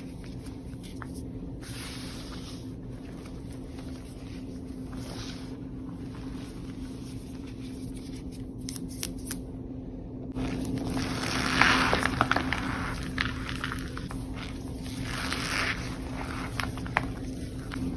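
Reformed powder block being crumbled and squeezed. It starts with soft scraping and squishing, then turns into louder crunching with crackles and sharp clicks about ten seconds in. A steady low hum runs underneath.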